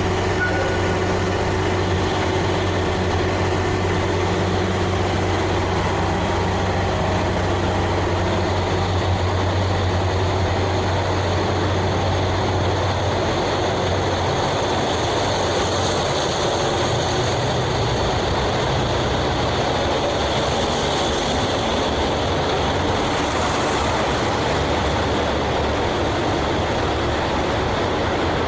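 JR Hokkaido KiHa 183 series diesel train's engines running with a steady low drone that eases about halfway through, while a higher hiss rises.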